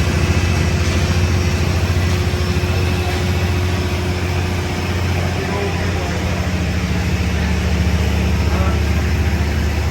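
Boat engine running steadily with a low drone, under a constant wash of wind and water noise.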